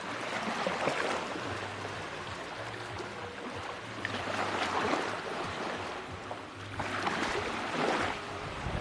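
Small sea waves breaking and washing up a beach, the wash swelling three times.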